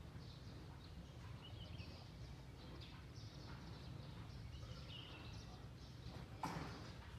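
Faint, scattered bird chirps over a steady low background rumble, with one sudden knock about six and a half seconds in.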